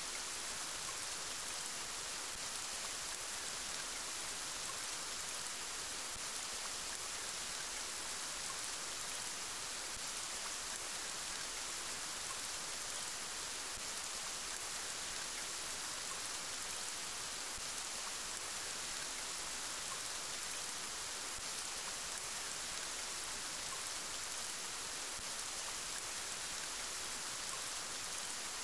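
Steady rainfall, an even hiss of drops with no change in strength.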